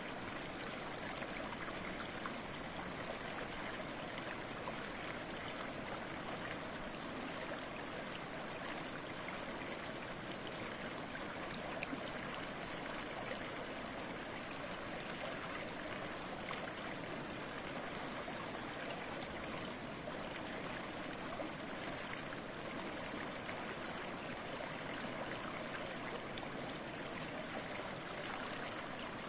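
A babbling stream, water flowing and trickling steadily without a break.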